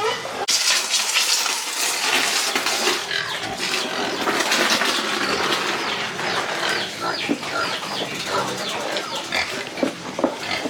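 Pigs squealing: a dense, noisy stretch of cries for the first few seconds, then many short, overlapping squeals that drop in pitch.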